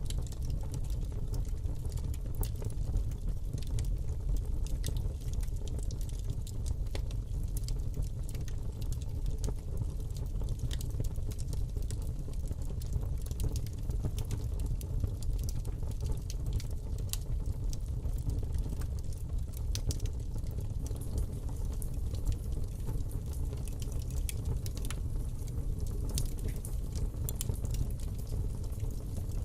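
Wood fire burning in a fireplace: a steady low rumble from the flames, with many small, sharp crackles and pops scattered through it.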